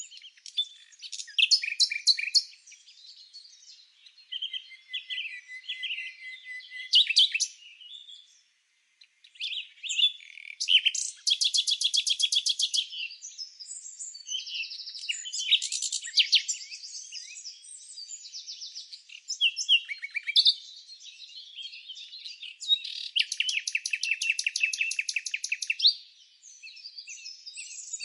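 Several songbirds chirping and singing over one another. Long, rapid trills come about eleven seconds in and again about two-thirds of the way through, with a brief lull just before the first.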